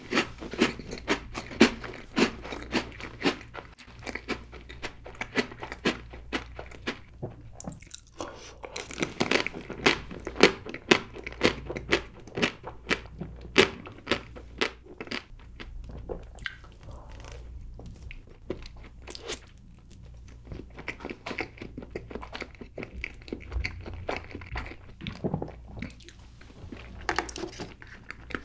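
Close-miked chewing of chocolate desserts: a rapid run of sharp mouth clicks that thins out after about fifteen seconds, with a few stronger ones near the end.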